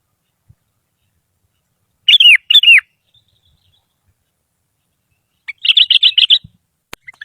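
Sooty-headed bulbul (kutilang) singing: two loud falling whistled notes about two seconds in, then after a pause a quick run of warbling notes near the end, with a faint click just after.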